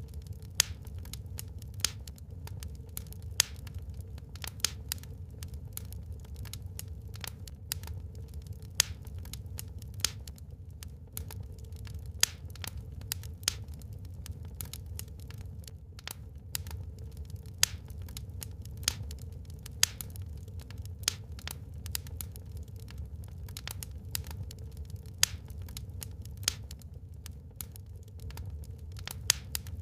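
Wood fire burning in a fireplace, with irregular sharp crackles and pops from the burning logs over a steady low rumble.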